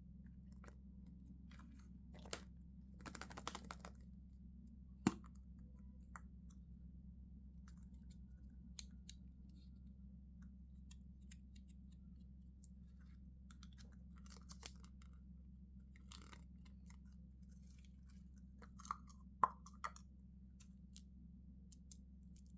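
Sparse handling sounds of candy packaging: a few brief plastic-wrapper crinkles and light clicks and taps, with a pair of sharper clicks about two-thirds of the way through, over a faint steady hum.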